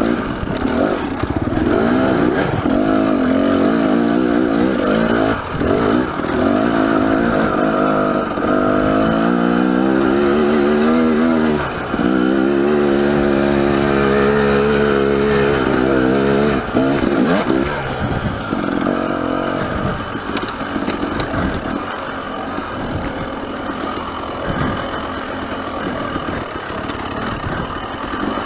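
Dirt bike engine riding a trail. It revs up with rising pitch and short dips in level between pulls, holds a steady pitch for a few seconds, then drops to a quieter, uneven off-throttle sound for the last third.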